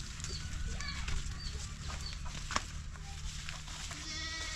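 Chickens clucking, with repeated short high chirps and a longer call near the end; a single sharp click sounds about halfway through.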